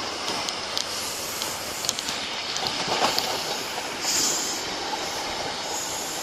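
Class 43 High Speed Train moving along the platform: steady rail and wheel noise with sharp clicks over the first two seconds and a brief high wheel squeal about four seconds in.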